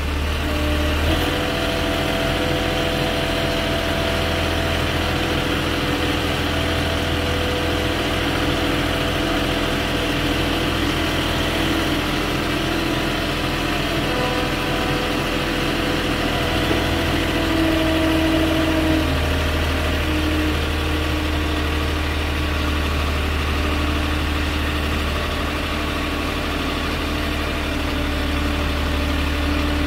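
Forklift engine running steadily while the machine is driven with a load on its forks; the engine speed picks up about a second in and shifts again later on.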